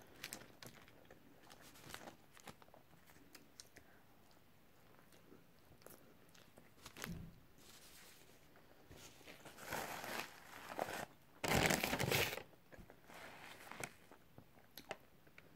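A person chewing and eating fast-food fries and a cheeseburger, with small mouth clicks and the rustle of paper wrappers. Paper crinkles in a few short bursts, the loudest about twelve seconds in.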